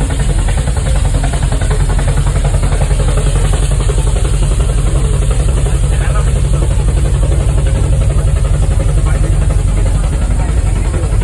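Steam rack locomotive of the Brienz Rothorn Railway running, a loud, steady mechanical rumble with a heavy low end.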